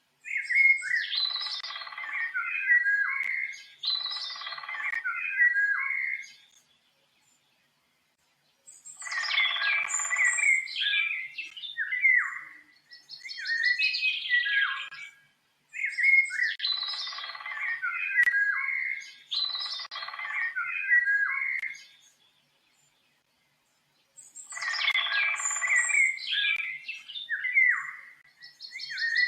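A songbird singing in repeated phrases of quick, gliding whistled notes, each phrase two to three seconds long with short pauses between. There are two longer silences, about a quarter of the way in and about three quarters of the way in.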